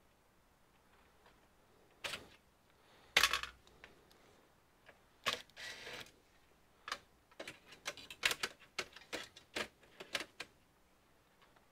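Small hard parts being handled while a computer is taken apart: a knock, a louder clatter, a brief scrape, then a quick run of light clicks and clinks in the second half.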